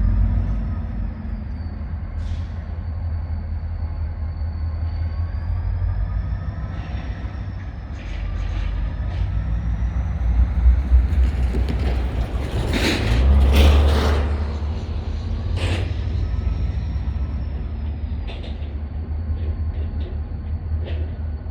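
EMD GP40-2 diesel locomotives running with a steady low rumble as they back a train in, with a louder rush of noise about twelve to fourteen seconds in.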